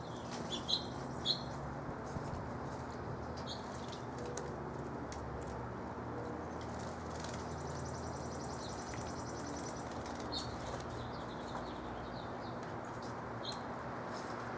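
Small backyard songbirds chirping, with short high chirps scattered through and a fast high trill about halfway through, amid brief wing flutters, over a steady low background rumble.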